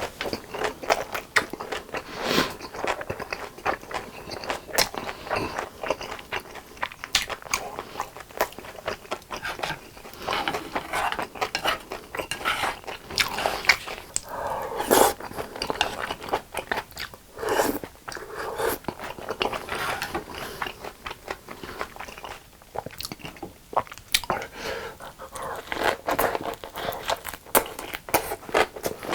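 Close-miked chewing and biting of tteokbokki rice cakes and gimbap, a continuous run of wet smacks and crunches with short pauses.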